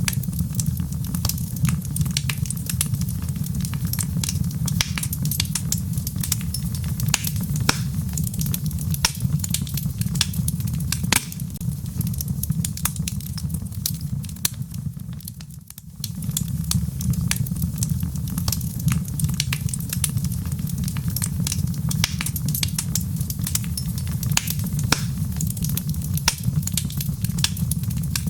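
Wood fire in a fireplace crackling, with many sharp pops over a steady low rumble of the flames. The sound dips briefly about halfway through.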